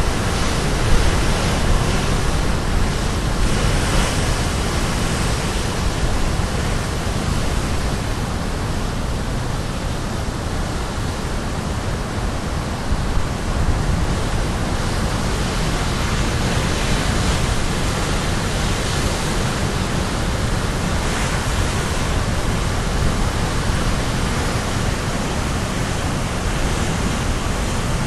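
Caribbean Sea surf crashing without pause, a dense rushing wash of breaking waves that swells a little every few seconds.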